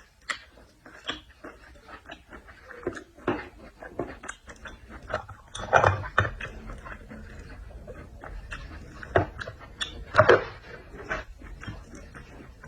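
Close-miked eating sounds: wet chewing and smacking of shellfish, many small clicks, with two louder mouth sounds about six and ten seconds in.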